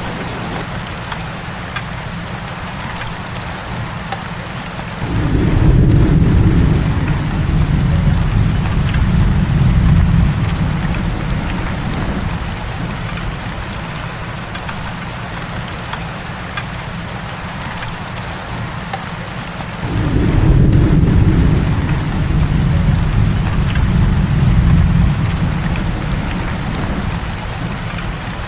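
Heavy rain falling steadily. A low roll of thunder begins about five seconds in and another about twenty seconds in; each rumbles for several seconds before fading.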